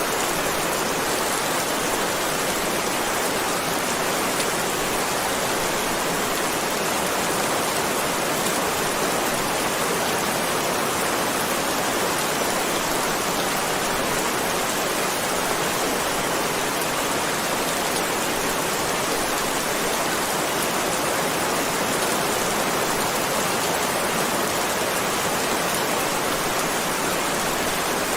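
Heavy rain falling steadily: an even, unbroken hiss of rain with no thunder or single drops standing out.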